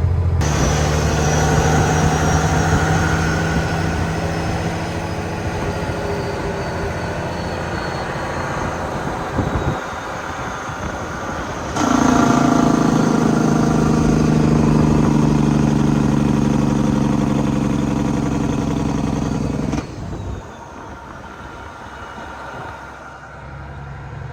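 Freightliner Classic tow truck's diesel engine running while it tows a semi tractor. The sound steps up abruptly louder about twelve seconds in and drops off sharply around twenty seconds.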